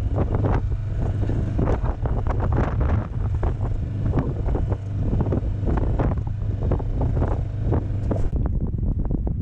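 Wind buffeting the microphone aboard a small sailing yacht under way, a heavy low rumble with irregular surges of water rushing and splashing along the hull. Near the end the higher hiss falls away.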